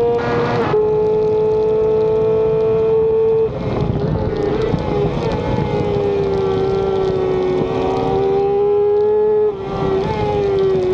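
Racing motorcycle engine heard from onboard, held at high revs under hard acceleration with a steady high-pitched tone over wind noise. It dips briefly in loudness and pitch a little over three seconds in and again near the end.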